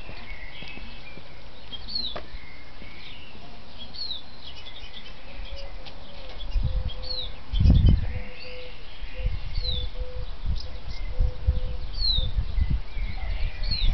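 A bird calling in the garden: a short, high, downward-slurred note repeated about every two seconds. From about halfway an uneven low rumble comes in, loudest in one burst a little after the middle.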